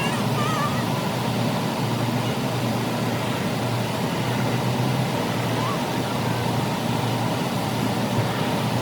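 Steady mechanical drone with a low hum under an even hiss.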